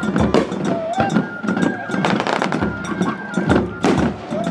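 Star-mine fireworks barrage: aerial shells bursting and banging in quick, irregular succession, with short held high-pitched tones and a few gliding tones sounding between the bursts.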